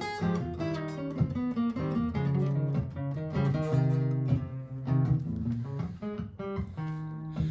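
Martin GPCPA4 steel-string acoustic guitar, picked notes improvised over a looped guitar accompaniment with sustained low notes underneath.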